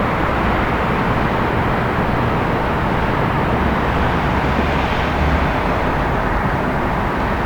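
City traffic ambience: a steady wash of road noise and low rumble, with a slight swell in the low rumble about five seconds in.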